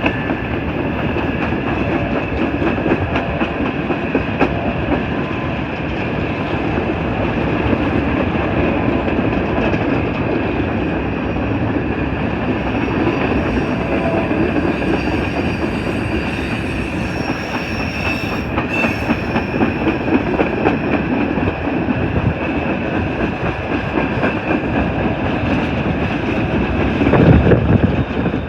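Empty coal hopper cars of a freight train rolling past, with a steady rumble and wheel clatter on the rails and a thin high ringing tone over it. A louder low surge comes near the end.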